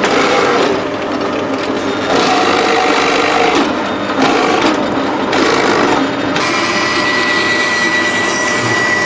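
Woodworking tools shaping wood for Thai musical instruments: rough sawing and rasping noises that change every second or two, joined about six seconds in by a steady high-pitched whine.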